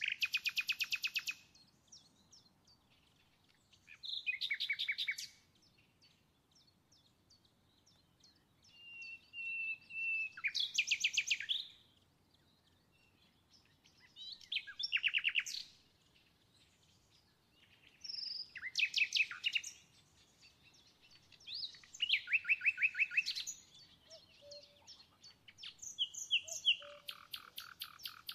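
A songbird singing in short, rapid trilled phrases that repeat every few seconds, about seven in all, with brief quiet between them.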